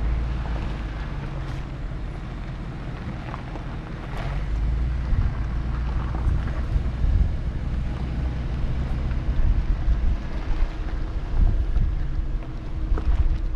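A 4x4 truck driving, with steady engine drone and road rumble. Wind buffets the microphone, and the sound grows louder and rougher from about four seconds in.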